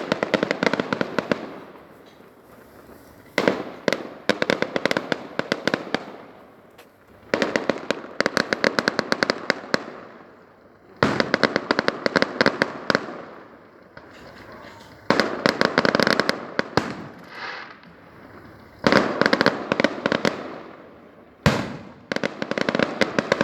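Fireworks display going off in repeated salvos: each salvo is two to three seconds of many rapid, crackling bangs, with a new one starting about every four seconds.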